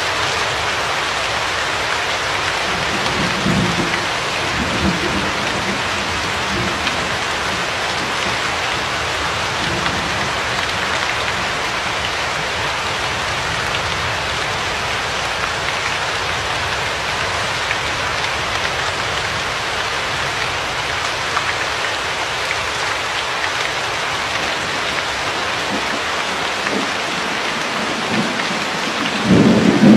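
Steady heavy rain falling, with low rolls of distant thunder a few seconds in and a louder roll starting near the end.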